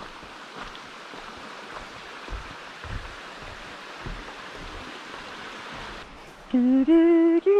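Steady rushing noise like running water, with a few soft low thumps. About six and a half seconds in, loud music cuts in: a held melody line stepping up in pitch.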